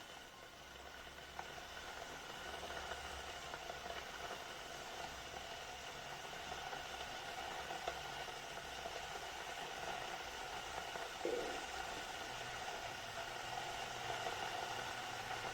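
Glass electric kettle heating water: a steady hiss that slowly grows louder as the water warms, with a few faint ticks and a brief knock about eleven seconds in.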